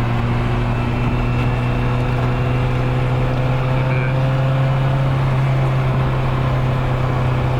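Nissan 240SX's engine and exhaust running at a steady, unchanging speed while the car drives along.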